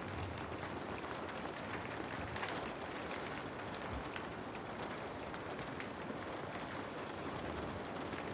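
Steady rain falling, a dense even hiss speckled with the small ticks of individual drops, with a low rumble underneath.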